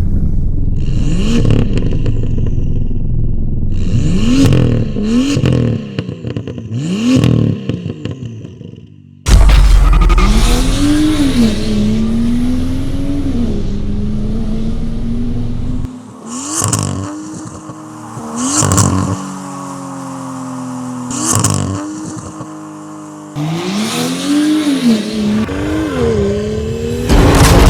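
BMW M2 F87's turbocharged straight-six through an iPE valve-controlled exhaust, revved repeatedly in quick rising-and-falling blips. About nine seconds in the sound cuts to a louder stretch of revs and a held engine note, broken by several sharp cracks.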